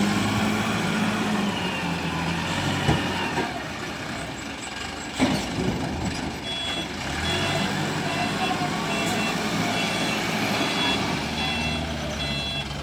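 Wheel loader's diesel engine running under work, with a couple of sharp knocks. About halfway through, its reversing alarm starts beeping steadily, roughly one and a half beeps a second.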